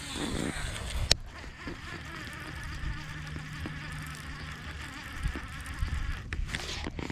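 A steady low buzzing hum that comes and goes, with one sharp click about a second in.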